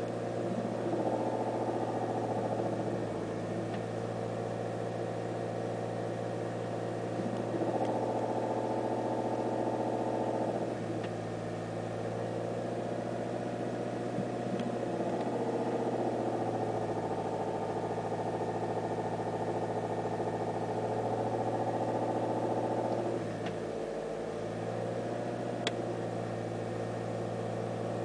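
Volkswagen T5 GP van engine idling steadily, its tone swelling and easing back every few seconds, with a few faint isolated clicks. The knocking ('Tockern') from the engine bay comes when the clutch is worked or a gear is changed, which the owner connects with the clutch hydraulics.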